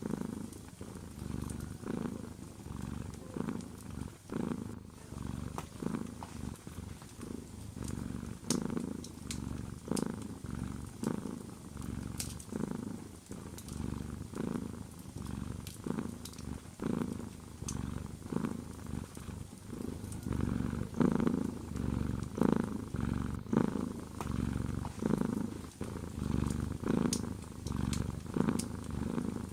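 A domestic cat purring close up, in a steady rhythm of pulses slightly faster than one a second as it breathes in and out, with light crackles of a wood fire scattered through it.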